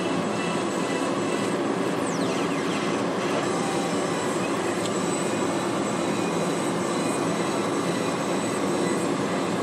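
Steady road and tyre noise heard inside the cabin of a moving car.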